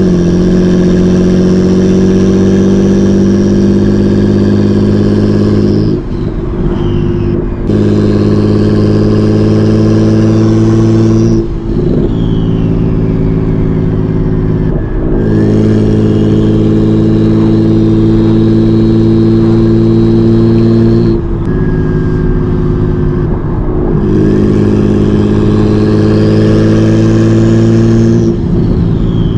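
Single-turbo BMW 335i's N54 inline-six pulling in long steady stretches through a hood-exit downpipe, with a high turbo whine above the engine note. About five times the throttle lifts: the engine note breaks and the turbo whine falls away, then the pull picks up again.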